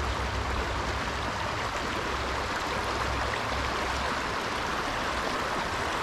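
Small stream running over a riffle: a steady, even rush of flowing water.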